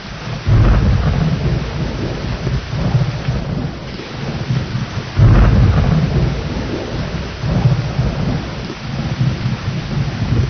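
Steady heavy rain with two rolls of thunder: one breaks suddenly about half a second in, the other about five seconds in, and each rumbles low and fades off over several seconds.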